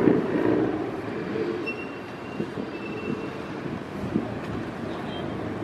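Steady background noise of car engines running, with no single engine standing out and a faint thin high tone for about a second and a half near the start.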